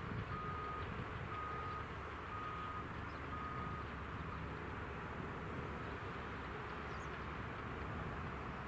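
Electronic warning beeper giving four even, single-pitched beeps about once a second, then stopping, over a steady low rumble.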